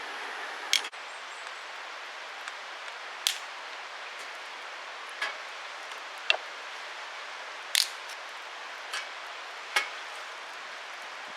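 Wood fire crackling: sharp single pops every second or two over a steady hiss.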